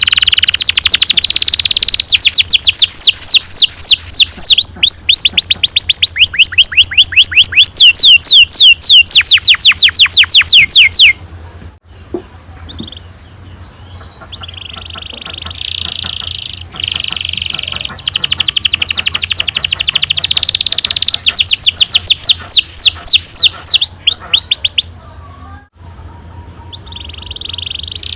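Domestic canary singing long rolling trills: fast runs of repeated sweeping notes, broken by a pause of a few seconds about ten seconds in and another near the end.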